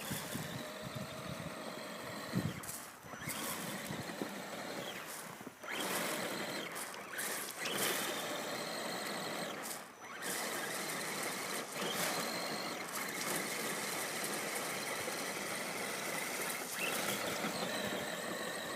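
Electric motor and gears of an RC scale truck whining as it drives through snow, the throttle easing off and picking up again a couple of times.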